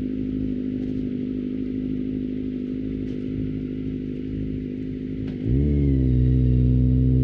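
Kawasaki ZX-25R 250cc inline-four with an Akrapovic exhaust running at a steady engine speed. About five and a half seconds in it gives way to a louder, deep, steady droning tone.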